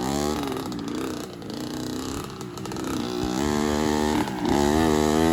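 65cc dirt bike engine revving up and down in repeated surges as it climbs a tight trail, loudest and steadiest in the second half.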